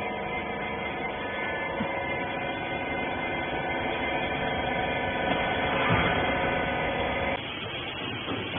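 Hydraulic rag baler's pump unit running with a steady hum, then cutting off abruptly about seven seconds in.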